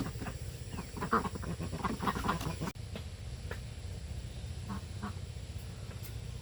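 A quick run of short animal calls, ending abruptly about two and a half seconds in, followed by quieter background with a few faint clicks.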